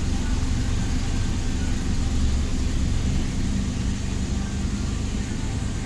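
Toyota Revo engine idling steadily and low, at about 600 rpm, below the roughly 800 rpm the owners expect.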